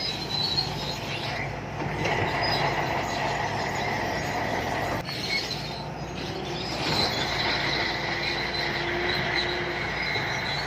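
Shantui crawler bulldozer working, its diesel engine running steadily under the high squeal of its steel tracks.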